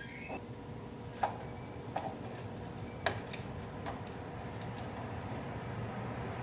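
Scattered sharp clicks and light taps of metal tools being handled under a truck during an oil change, over a faint steady hum.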